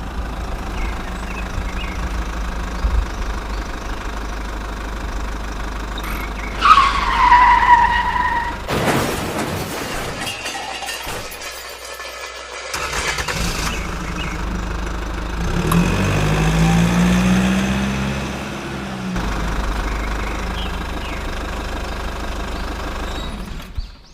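Engine running in several spliced stretches, with a falling squeal about seven seconds in and an engine tone that rises and falls past the middle.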